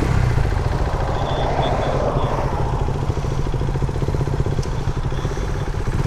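A Lifan KP motorcycle's single-cylinder engine running steadily, with an even rapid pulse, just after being restarted from a stall.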